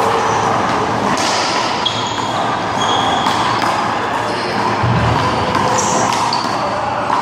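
Handball rally: a small rubber handball smacked by hand and slapping off the wall and the ground in sharp separate hits, over a steady noisy background with short high squeaks.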